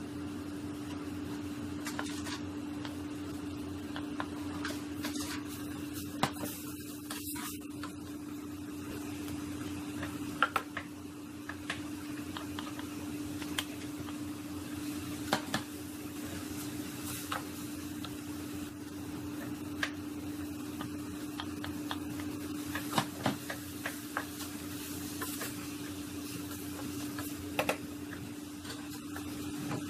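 Ground meat and diced vegetables sizzling in a stainless steel pot while a wooden spatula stirs, with scattered sharp knocks of the spatula against the pot over a steady hum.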